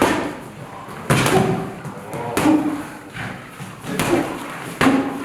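Boxing gloves landing punches during sparring: about five sharp thuds, roughly a second apart.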